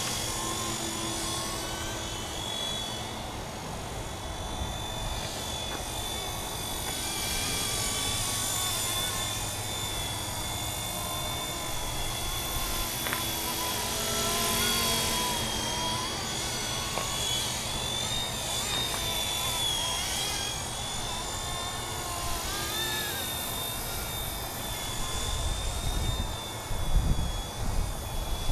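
Radio-controlled scale MD 500 helicopter in flight, its rotor and drive giving a steady high whine that drifts gently up and down in pitch. Near the end come a few low buffeting thumps.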